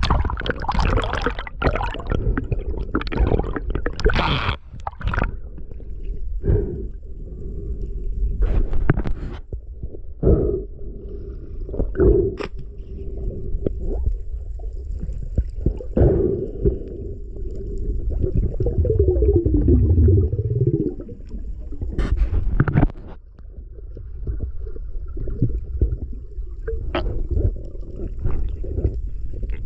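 Water gurgling and sloshing against the microphone, with a strong low rumble and many short splashes and knocks.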